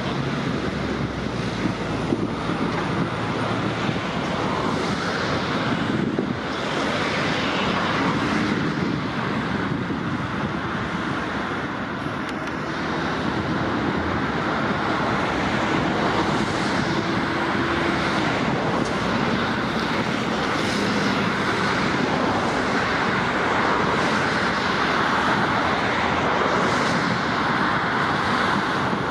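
Steady outdoor traffic rumble mixed with wind buffeting the microphone, with faint passing engine tones.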